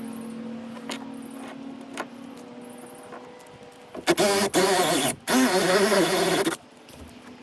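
A small electric motor, like a power tool's, hums steadily with a few light clicks. About four seconds in it runs loud twice, each time for about a second, its pitch wavering as if under load.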